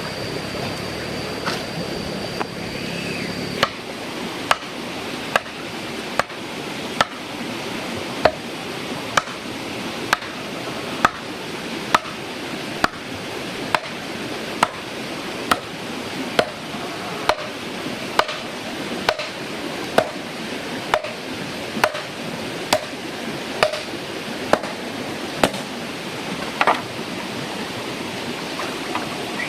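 Evenly spaced single blows, a little under one a second, over a steady rushing noise.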